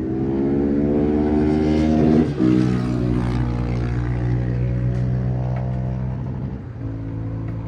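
Motorcycle engine accelerating, its pitch rising for about two seconds, then a quick break like an upshift and a steadier pull that eases off near the end.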